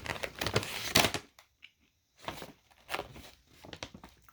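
Loud crinkling and crackling of a plastic snack bag for about a second and a half. Then a few softer crunches, like chewing the crisp chocolate-coconut clusters.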